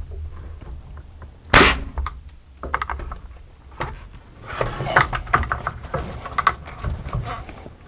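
A nail gun firing once, about a second and a half in, driving a nail down through the shelf into the 2x4 brace. It is followed by lighter clicks and knocks from handling the wood and tool.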